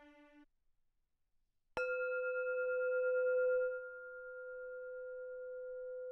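A bowed string note fades out, then after about a second of silence a single bell-like tone is struck suddenly and rings on as a steady, pure hum, softening a little about two seconds later and holding.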